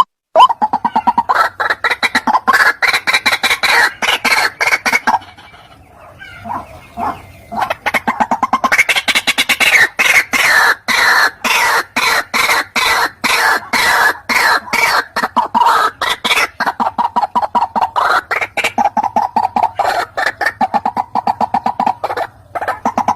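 White-breasted waterhen calling: long runs of fast, repeated harsh notes, with a brief lull about five seconds in before the calling picks up again.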